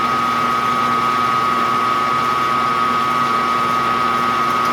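Milling machine spindle running steadily with a constant high whine over a motor hum.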